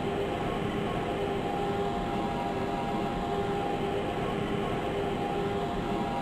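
Lisbon Metro ML90 train running between stations, heard aboard: a steady rolling rumble with two steady motor tones that come and go.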